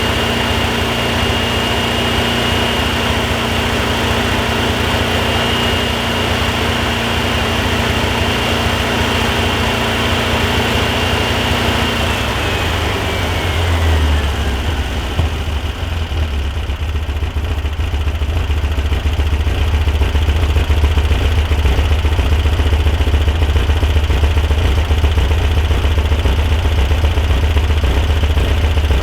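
Volkswagen Super Beetle's 1641cc air-cooled flat-four running at a raised speed, then settling down to a steady idle about halfway through, a high whine falling with the revs. Once warm, the owner hears a noise from it like pre-detonation at cylinder three that changing the timing does not alter.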